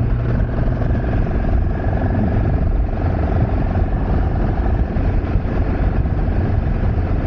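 Motorcycle engine running steadily while riding, a constant even drone at unchanging speed.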